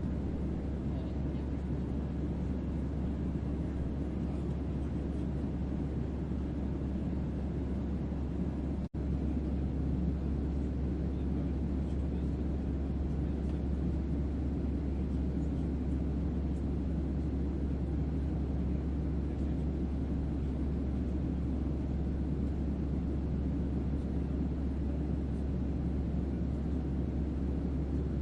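Steady white-noise spaceship ambience: a deep bass hum under a low, even rumble, with a split-second dropout about nine seconds in.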